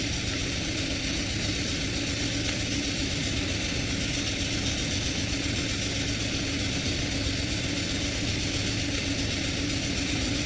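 Steady, unchanging machine-like noise with a low hum and no distinct events.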